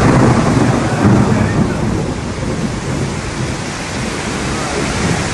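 Heavy downpour: a dense, steady rush of rain and running water with a loud low rumble, strongest in the first couple of seconds.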